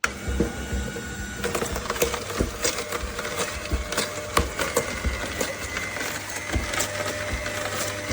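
AMZCHEF cold-press slow (masticating) juicer running, its auger crushing produce with many irregular cracks and snaps over a steady motor hum.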